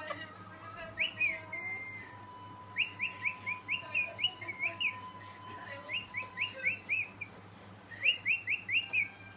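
Pet parrot chirping in quick runs of short rising notes, about five a second, in four bursts with brief pauses between.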